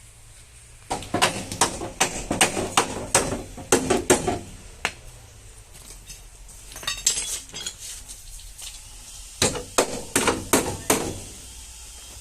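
Hammer tapping on car body sheet metal in quick runs of sharp metallic strikes. One run starts about a second in and lasts several seconds, lighter taps follow midway, and a second run comes near the end.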